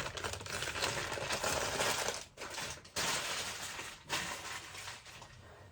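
Plastic bags of small carved crystals being handled, with dense crinkling and the stones clinking against each other, broken by short pauses.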